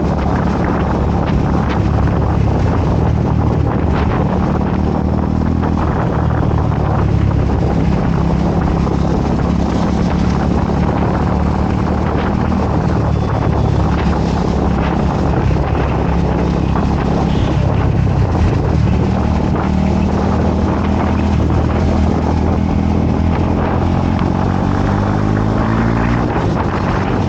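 Motorcycle engine running under way, its pitch shifting with the throttle and climbing as it accelerates near the end, with wind rushing over the microphone.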